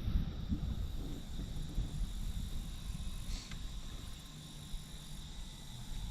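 Low rumble of wind on the microphone, with a faint steady high-pitched whine throughout and one brief faint high blip about halfway through.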